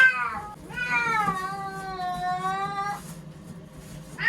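Frightened feral cat yowling in distress at being confined: a short falling cry, then one long drawn-out yowl of about two seconds, and another cry starting right at the end.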